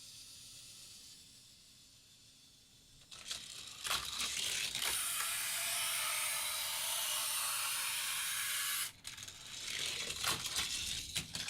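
A die-cast Hot Wheels car running on plastic orange track. There are sharp clicks and knocks as it hits the track pieces, then a steady rolling rush for about four seconds that cuts off suddenly. More clattering follows near the end.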